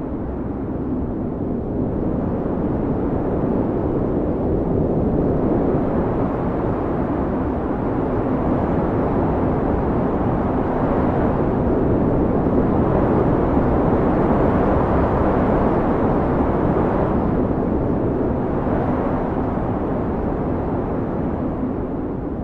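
Blizzard wind blowing in a deep, continuous rush that swells and eases in slow gusts, strongest around the middle.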